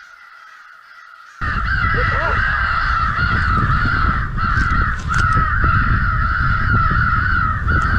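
Crows cawing in a dense, continuous overlapping chorus, under heavy wind rumbling on the microphone. Both start suddenly about a second and a half in.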